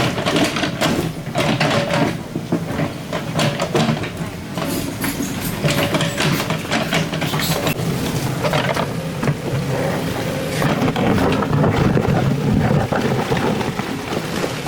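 Excavator diesel engine working under load, with irregular clanks and scraping from the bucket digging soil and rock.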